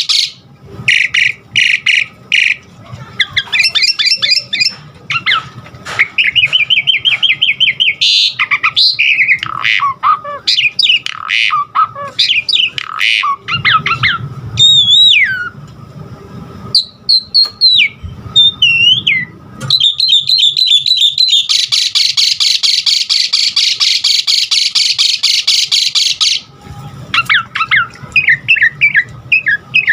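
Asian pied starling (jalak suren) singing a varied song of short whistles, chatters and sliding whistled notes, with a long harsh rasping chatter lasting about five seconds past the middle.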